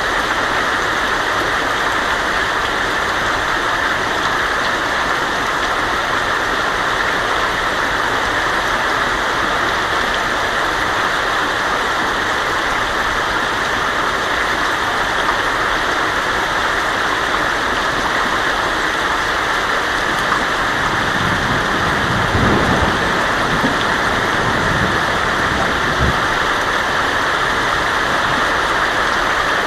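Heavy rain falling steadily on a tin roof, with a low rumble of thunder rolling in for a few seconds about three-quarters of the way through.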